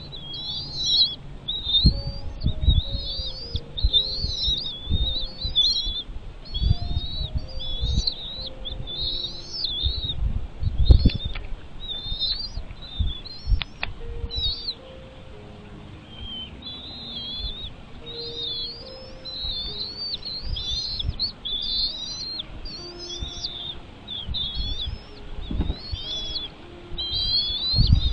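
A bird chirping, a run of short, high rising-and-falling notes several times a second, thinning out briefly about halfway through, with scattered low thuds underneath.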